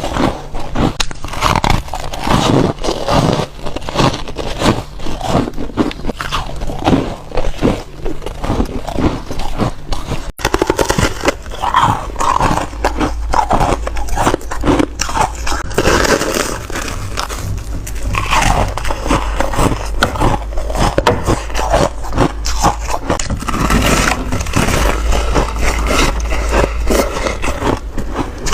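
Close-miked biting and chewing of foam ice: a dense, continuous run of loud crisp crunches. About a third of the way in there is a momentary break, after which a low steady hum runs under the chewing.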